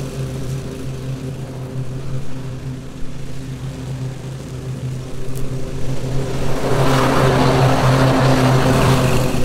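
Lawn mower engine running steadily. About six and a half seconds in, a louder rushing noise swells up over the engine and carries on to the end.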